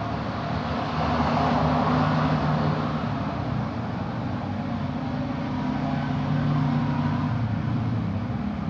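Steady low engine hum, swelling louder about a second in and again later.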